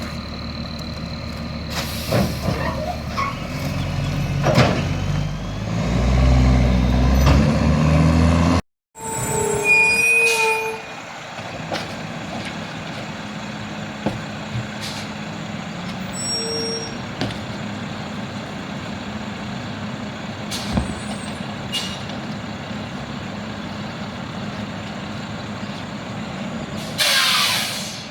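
Garbage truck engine revving up as the packer works, then, after a cut, the truck running more quietly. A short loud hiss of air brakes comes near the end.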